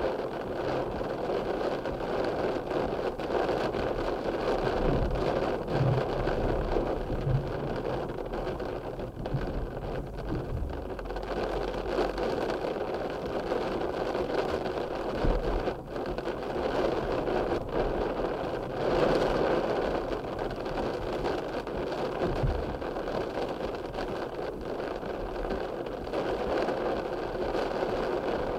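Steady rain falling, an even hiss with a few faint low thuds.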